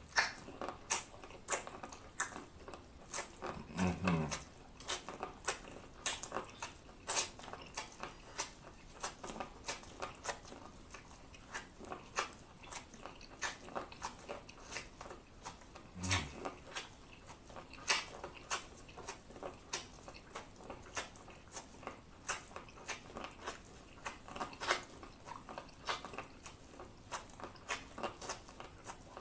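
Close-miked eating of boiled corn on the cob: a steady run of crisp, wet bites and chewing as kernels are stripped off the cob. A short low hum comes twice, about four and sixteen seconds in.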